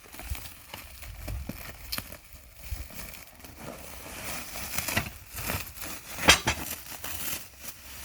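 Packaging crinkling and rustling as it is unwrapped by hand from a fire bowl's leg stand, irregular and crackly, with one sharp, loud crack about six seconds in.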